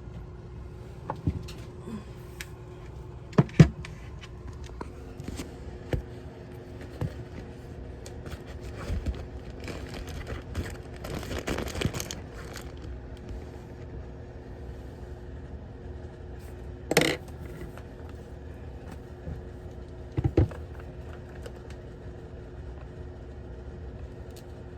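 Handling noise of objects being moved about on a work surface: scattered sharp knocks and clicks, the loudest about three and a half seconds in and others past the middle, with a rustling scrape in between, over a steady low hum.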